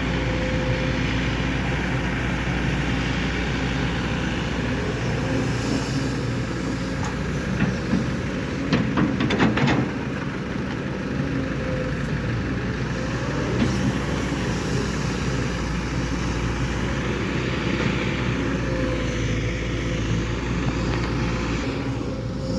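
Diesel engine of a Kobelco SK200-8 hydraulic excavator running steadily, with a short burst of clattering knocks about eight to ten seconds in.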